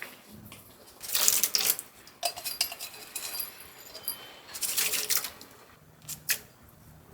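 Dishes and cutlery clinking and clattering as they are handled, in several bursts, with two sharp clicks near the end.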